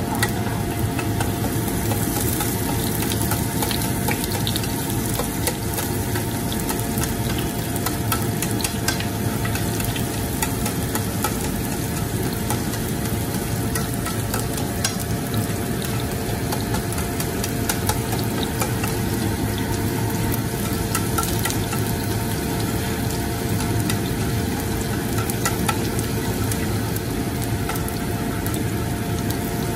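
Minced garlic, sliced red onion and black pepper sizzling in oil in a nonstick frying pan, stirred with a spatula that clicks and scrapes against the pan, over a steady low hum.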